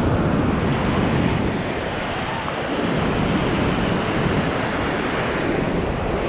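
Ocean surf washing onto a beach, a steady rushing noise, with wind buffeting the microphone and adding a low rumble.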